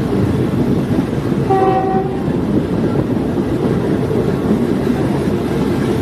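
Diesel multiple-unit railcar running on the track, a steady rumble and rattle, with one short horn blast about one and a half seconds in.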